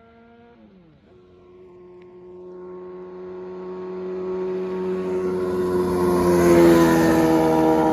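An engine passing close by, with a steady droning hum that grows louder over several seconds and peaks near the end, its pitch sagging slightly as it goes by.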